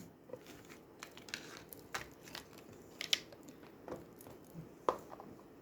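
Faint, scattered clicks and rustles of oracle cards and their cardboard box being handled, with a couple of sharper ticks about three seconds in and near the end.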